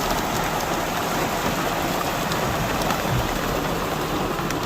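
Rain falling steadily on hard surfaces, with scattered sharp ticks of individual drops.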